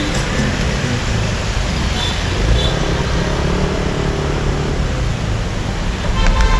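Riding a motorbike through dense city traffic: steady wind and road noise over the low rumble of engines, with a brief sharper pitched sound near the end.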